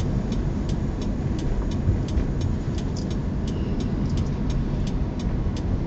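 Car on the move: a steady low rumble of engine and road, with a light regular ticking about three to four times a second.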